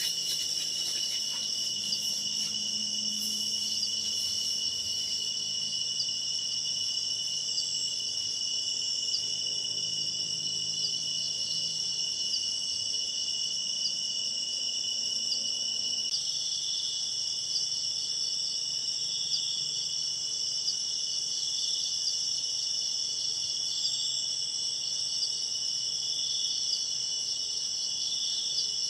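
Crickets and other night insects chirring steadily in several overlapping high-pitched bands. About halfway through, another insect joins with a call that pulses roughly every one and a half to two seconds.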